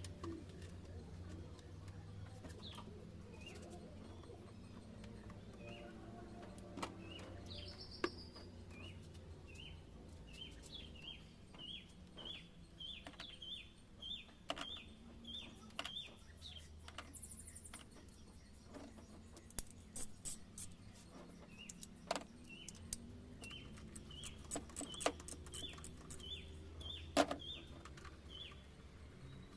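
A bird calling with short, repeated chirps about twice a second, over a steady low hum, with scattered sharp clicks and taps.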